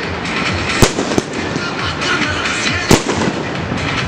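Fireworks display: aerial shells bursting with sharp bangs, one about a second in, a weaker one just after, and a strong one near three seconds.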